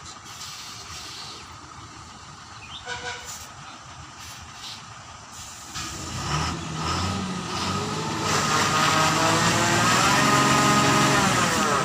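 Lorry engine revving up hard about six seconds in, holding high revs for a few seconds, then dropping near the end, as the truck strains to move.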